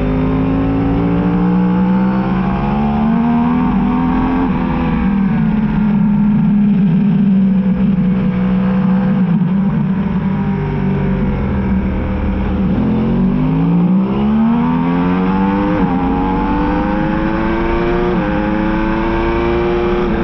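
Yamaha R1's inline-four engine running hard on track, its pitch climbing through the gears with short drops at each upshift, easing off about two-thirds through as the bike slows, then accelerating again, over a steady wind rush.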